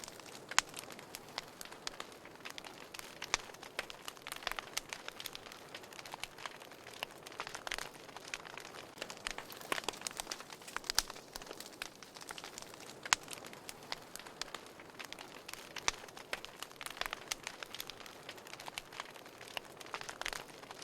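Wood fire crackling in a fireplace: a soft steady hiss of burning with frequent sharp, irregular pops and snaps.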